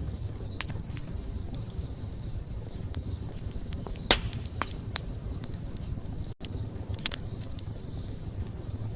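Wood campfire burning with a steady low rumble of flame and scattered crackles and pops of burning wood, one sharp loud pop about four seconds in. A split-second dropout in the sound comes about two seconds later.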